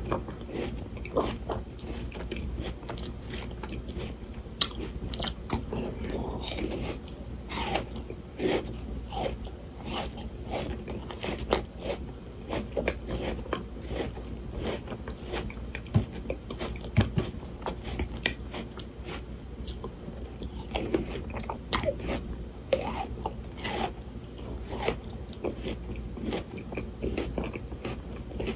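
Close-miked biting and chewing of frozen Shine Muscat grapes: crisp, icy crunches and crackles at an irregular pace, with wet chewing between bites.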